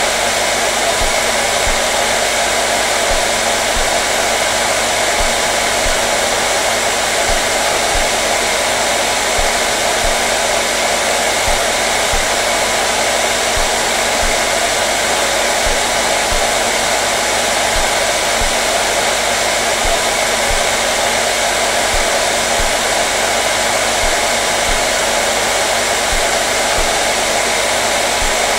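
Electric hair dryer running continuously: a steady, unchanging rush of blown air with a faint motor hum.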